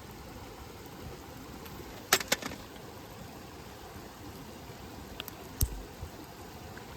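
Wood campfire burning with a steady low hiss and sharp crackling pops: two close together about two seconds in, the first the loudest, and another about five and a half seconds in.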